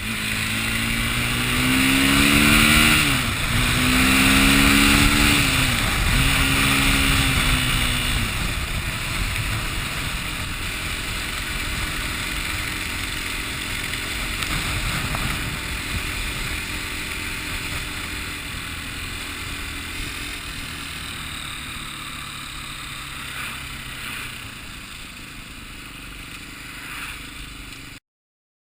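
A motor vehicle's engine revving, its pitch rising and falling several times over the first eight seconds, over a loud rushing noise. Afterwards a steady rushing noise continues and slowly fades.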